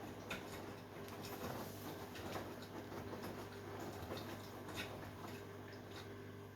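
Beko 10 kg washing machine running a quick wash, its drum tumbling a wet load of bedding and towels: a steady low motor hum with irregular light ticks and patter.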